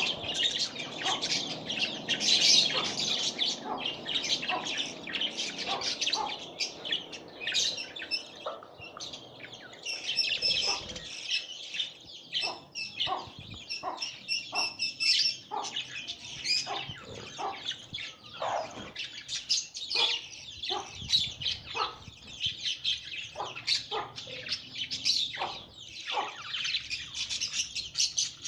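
Budgerigars chirping and chattering in a rapid stream of short, high chirps and squeaks, the sound of parent budgies feeding their chicks.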